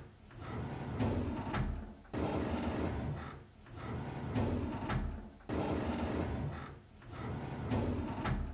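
A drawer sliding open, repeated about three times, roughly every three and a half seconds. Each pass is a sliding rumble that starts suddenly and includes a sharp knock.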